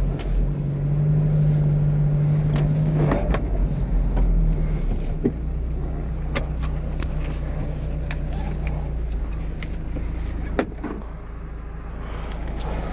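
A steady low engine hum, with scattered clicks and knocks over it.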